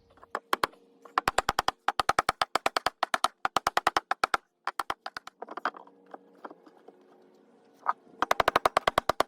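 Cordless impact driver driving screws into the wooden step: several bursts of rapid hammering, about ten knocks a second, with short pauses between screws and a longer run near the end.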